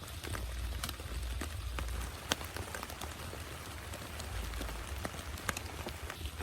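Steady rain falling, with single drops ticking sharply at irregular moments, the loudest about two seconds in and again near five and a half seconds, over a low rumble.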